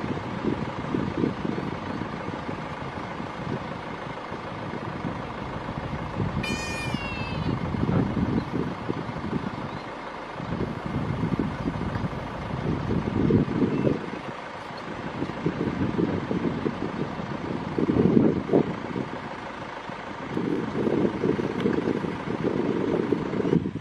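A vehicle engine runs steadily, with a gusting rumble that rises and falls throughout. About six and a half seconds in there is one short, high, falling call.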